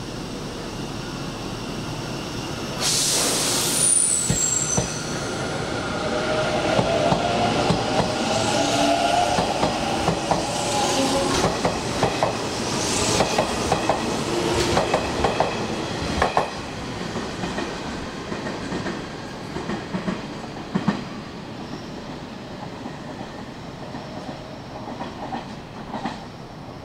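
Hanshin Railway electric train running past, its wheels clacking over rail joints under a gliding motor whine. It sets in suddenly about three seconds in with a brief high squeal, is loudest in the middle, then fades.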